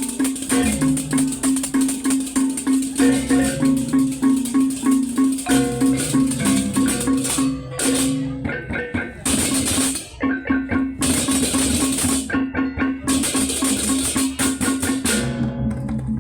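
Balinese baleganjur gamelan ensemble playing: a fast, even pulse of tuned gongs and drums, with clashing cymbals coming in loud bursts in the second half.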